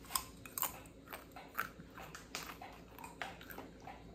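A person chewing crunchy plantain chips: soft, irregular crunches, about two or three a second.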